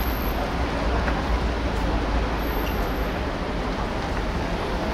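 Steady outdoor background noise with a heavy low rumble and no distinct events, like distant road traffic heard across an open pitch.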